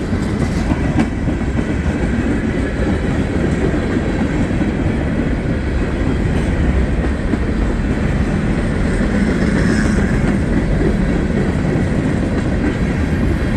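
Norfolk Southern freight train's cars rolling past on the rails, a loud, steady noise of wheels on track.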